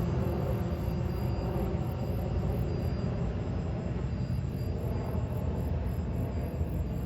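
Jet airliner engines running with a steady low rumble and a few faint steady tones over it.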